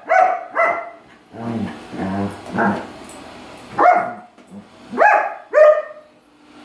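A dog barking at a robot vacuum cleaner it takes for a threat. Two sharp barks come at the start, then lower, softer sounds, then three more barks in the second half.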